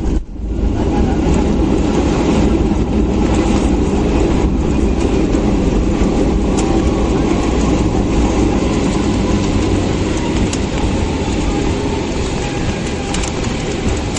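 Loud, steady rumble inside an airliner's cabin on the runway: jet engines running with the landing gear rolling over the pavement, giving a rattling, clattering undertone. The rumble eases slightly near the end.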